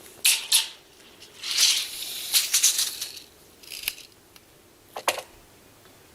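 Short bursts of rattling and clattering: two quick ones at the start, a rougher spell of about a second and a half, then two more single clatters. No chainsaw engine is running.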